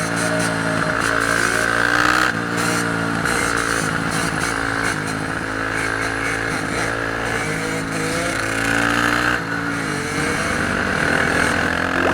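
Motorcycle engine revving, its pitch swinging up and down several times as the throttle is worked.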